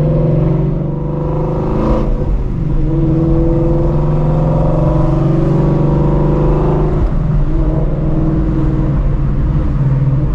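Ford Shelby GT350's 5.2-litre flat-plane-crank V8, fitted with long-tube headers, running steadily while the car cruises, its note drifting slightly up and down.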